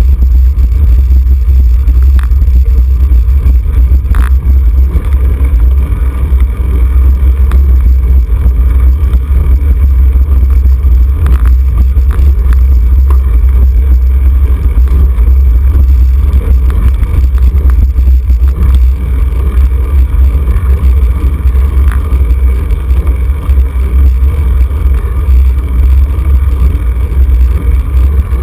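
Heavy wind buffeting on the microphone of a camera riding on a road bicycle at speed: a loud, steady, deep rumble.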